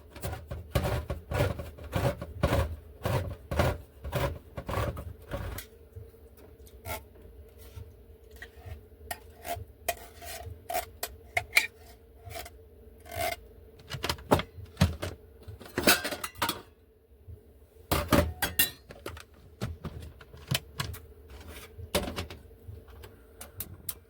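Cutlery clinking and scraping on a plate in irregular clusters of short clicks, with a steady hum starting a few seconds in.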